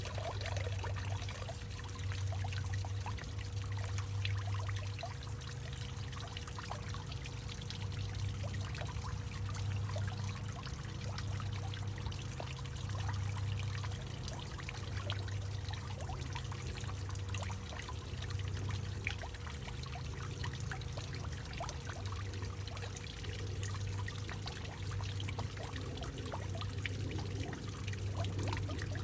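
Water trickling and pouring through a hollowed-out tree trunk, with many small splashes over a low hum that swells and fades every second or two.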